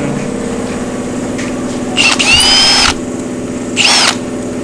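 Short hissing bursts from a spray or air nozzle, each with a whistling tone: one long burst about two seconds in and a short one near the end. A steady machine hum runs underneath.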